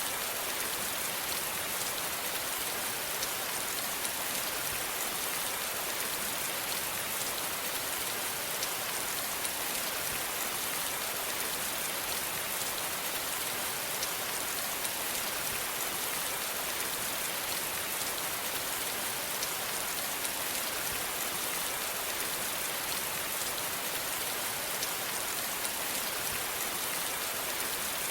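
Steady rain falling, an even hiss of drops with faint patter of individual drops striking a surface.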